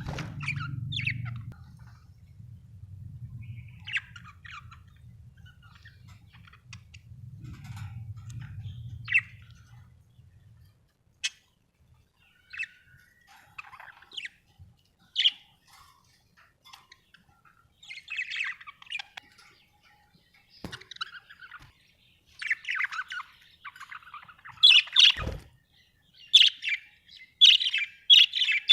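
Pet budgerigars chirping and chattering in short, scattered calls that grow busier and louder toward the end. A low steady hum sits under the first ten seconds, and there is a single thud about 25 seconds in.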